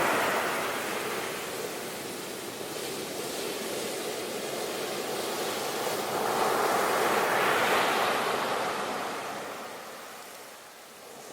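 Ocean waves washing ashore. The wash of one wave fades in the first couple of seconds, the next swells and breaks about seven seconds in, then draws back to a lull near the end.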